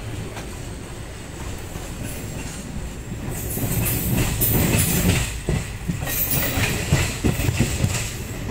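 Passenger train running on the rails, heard from inside a coach by the window as it pulls into a station. A steady low rumble turns, about three seconds in, into louder clattering and clacks of the wheels over the rail joints.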